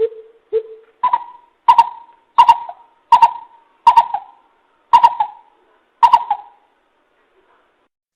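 Coucal (bìm bịp) calling, played as a trapping lure: two lower hoots, then a series of louder, higher hoots that slow down. Each hoot starts with a sharp click.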